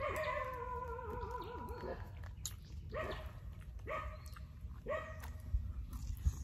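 A dog whining: one long whine with a wavering pitch, then three short yelps about a second apart.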